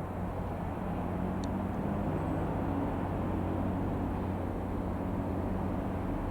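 Cessna 150 Aerobat's four-cylinder Continental O-200 engine and propeller running steadily at a constant pitch, getting slightly louder about a second in.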